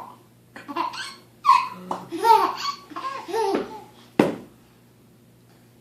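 A small child laughing in bursts of hearty, low chuckles, mixed with silly vocal noises made for him. The laughing stops after a sharp knock about four seconds in.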